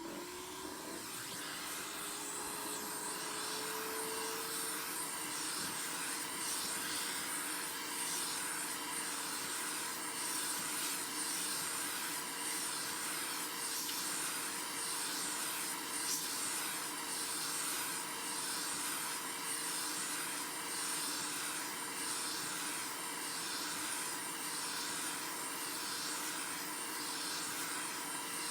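Hot air blower switched on: its fan motor spins up over the first few seconds to a steady whine over a rushing hiss of air, which then runs on evenly.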